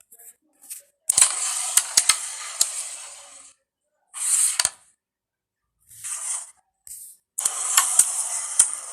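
Carrom shots: sharp clicks of the striker hitting the wooden pieces, followed each time by a hiss that fades as the pieces slide across the board. Two main shots, about a second in and about three quarters of the way through, with shorter sliding sounds between.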